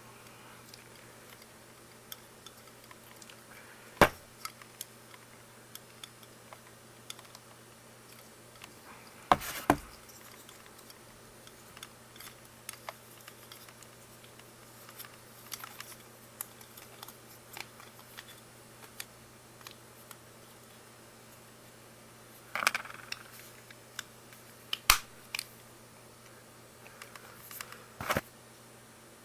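Scattered sharp clicks and knocks of small hard parts being handled, five of them louder than the rest, over a faint steady hum.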